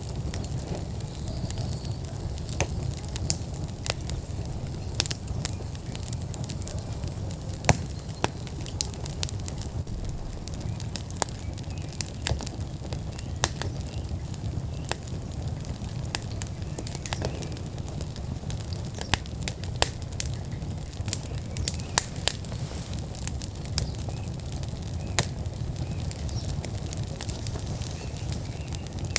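Wood fire burning in an outdoor fire pit, crackling with frequent sharp pops at irregular moments over a steady low rumble.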